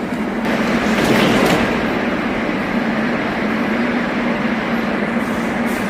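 Moscow metro train running at the station: a steady rumbling rush with a constant hum, swelling briefly about a second in.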